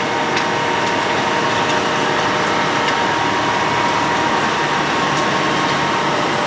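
Road planer (cold milling machine) running steadily at work, a dense, even machine noise with a few steady tones through it.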